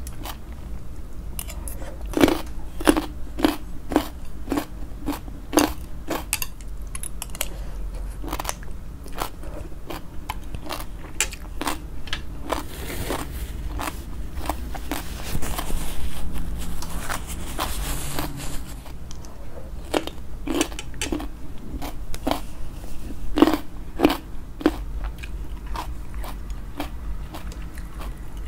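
Close-miked crunching and chewing of shredded green papaya salad (som tum), a run of sharp, crisp bites. Midway the chewing turns denser and noisier for several seconds.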